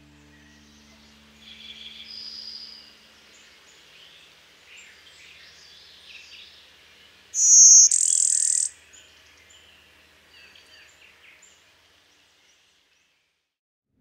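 Outdoor ambience of birds chirping and calling, with one loud high-pitched call lasting just over a second about halfway through. The ambience fades out shortly before the end.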